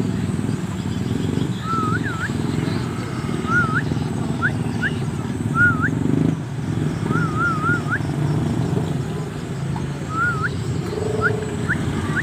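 Short clear whistles, each dipping and then flicking sharply upward, repeated every second or two, sometimes in a quick run of three, the kind of whistling used to train a young Javan myna. A steady low engine-like rumble runs beneath them.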